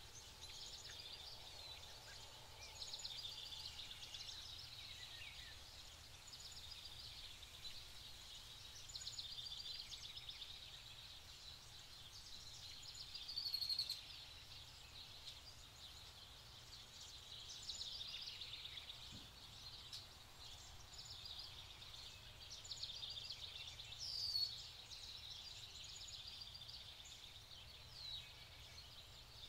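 Faint outdoor ambience with birds chirping and twittering in quick high notes throughout, with a couple of louder calls about 13 and 24 seconds in.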